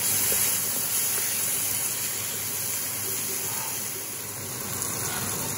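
Chopped onion, capsicum and tomato masala sizzling with a steady hiss in a frying pan of hot oil with a little water just added, as it is stirred with a spatula.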